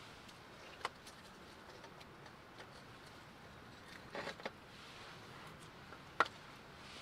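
A few scattered sharp clicks and taps over a faint steady background hiss: one just under a second in, a short cluster around four seconds in, and the loudest a little past six seconds.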